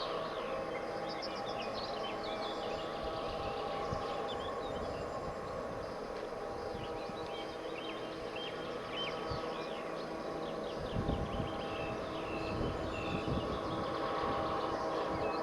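Diesel locomotives working a sand train, a steady engine drone with small birds singing over it. From about eleven seconds in, a heavier low rumble with irregular knocks joins in.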